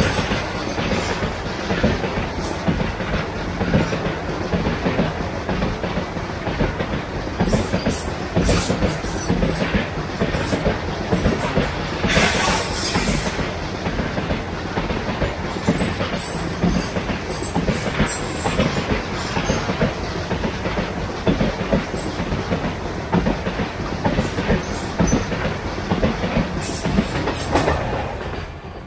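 A long freight train of covered goods wagons rolling past close by: wheels clattering over the rail joints in a dense, steady rumble, broken several times by short high metallic squeals from the wheels. The sound fades away near the end as the last wagon, the brake van, goes by.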